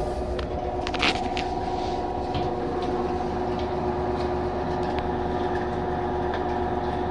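Whirlpool WTW5010LW top-load washing machine running mid-cycle, a steady motor hum with a few sharp clicks in the first couple of seconds.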